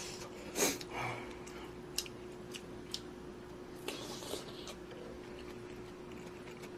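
Close-up eating sounds of spicy budae-jjigae ramyeon: a loud slurp of soup from a spoon about half a second in, then chewing with a few small sharp clicks, over a faint steady hum.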